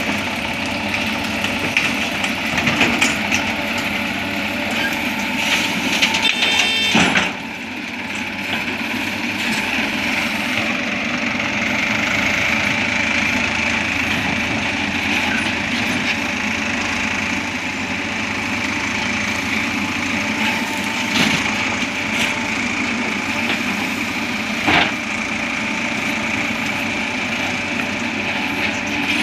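Diesel engine of a JCB backhoe loader running steadily while it digs and loads mud. It gets louder and clattery for a few seconds near the start, with sharp knocks from the bucket about two-thirds of the way in and again near the end.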